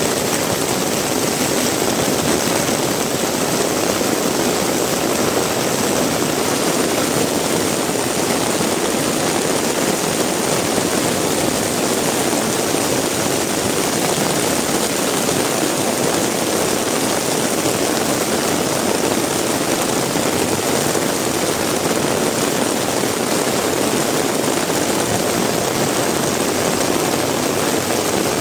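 Heavy rain falling steadily, a dense even hiss and patter with no breaks.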